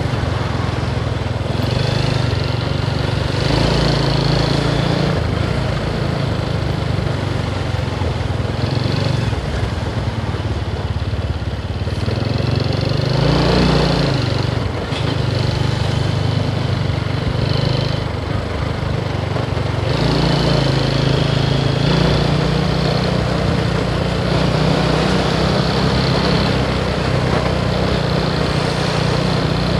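Motorcycle engine running under way, with wind and road noise over it; the engine note dips and rises again around the middle.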